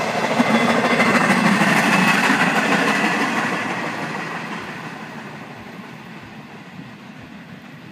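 Freight train rolling past on the rails with a steady rumble of cars and wheels. It fades away after about three seconds as the train recedes.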